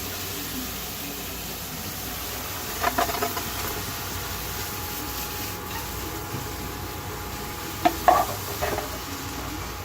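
Brussels sprouts sizzling in bacon fat and a splash of lemon juice in a hot pan. A few knocks and clinks sound about three seconds in and again around eight seconds in.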